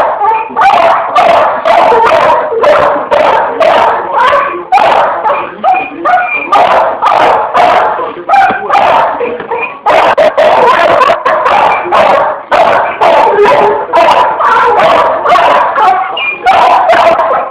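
Pit bull barking and yipping in quick, excited bursts, about two or three a second, almost without pause: play barking.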